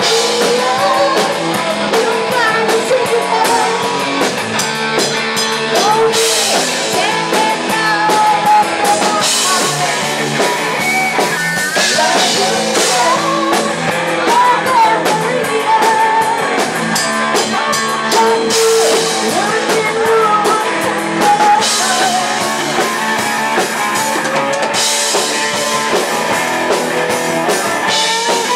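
Rock band playing live: electric guitar and drum kit with a singer, loud and steady.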